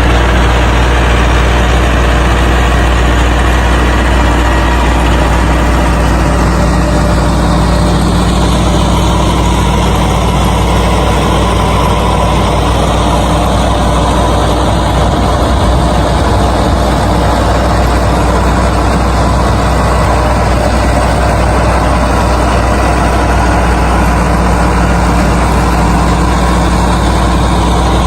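An engine running steadily at idle, a loud, even low drone with no change in speed.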